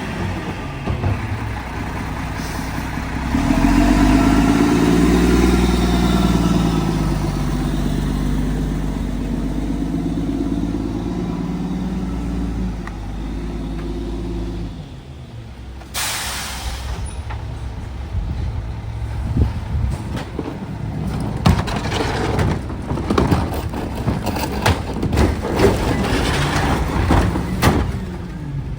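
Garbage truck engine running, revving up about four seconds in and easing off. About halfway through comes a short air hiss, then a stretch of irregular knocks and rattles.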